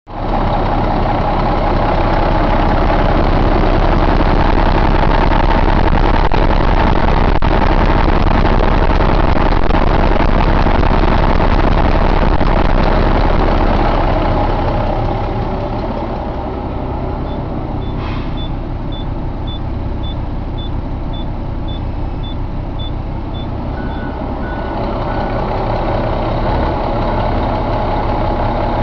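2007 Cummins ISX inline-six diesel engine running steadily. It is louder at first, then settles to a lower, quieter running level about halfway through. Over the quieter part comes a faint, rapid beeping of about two beeps a second.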